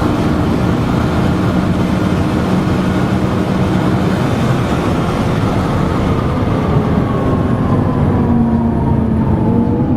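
Sports car engine and road noise at speed, a loud steady drone with the engine note slowly falling in pitch.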